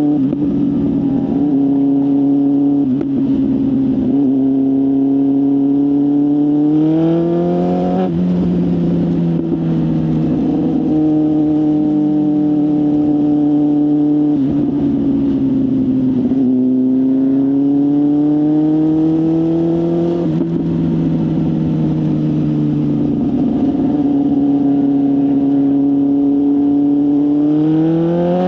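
BMW S1000RR inline-four sports bike running through a full aftermarket exhaust. The engine note climbs under throttle and steps down sharply twice, as at upshifts, eases off in the middle and climbs again near the end.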